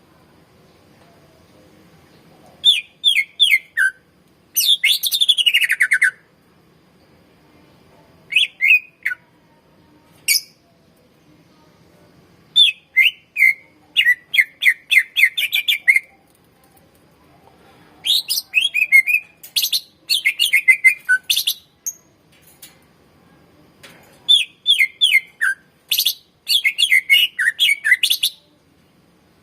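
Cucak ijo (green leafbird) singing in bursts of fast, high chattering phrases. Some phrases slide downward in pitch, and short pauses fall between the bursts.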